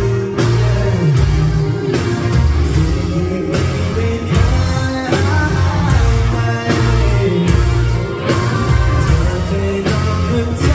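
Rock band playing live: guitars, bass and drums with a sung vocal line, steady and loud.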